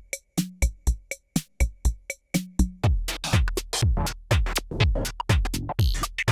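Korg drumlogue drum machine playing a preset pattern of sharp electronic hits. About three seconds in, the pattern turns busier, with a deep kick and bass added.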